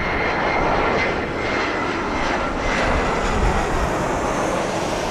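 Airliner on final approach passing low, its engines making a steady rushing noise with a thin high whine, as it comes in to land. Gusty wind buffets the microphone underneath.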